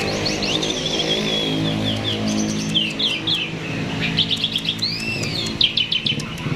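Jalak (starling) singing vigorously: rapid runs of chirps, short trills and slurred whistled notes, almost without pause. A steady low hum runs underneath.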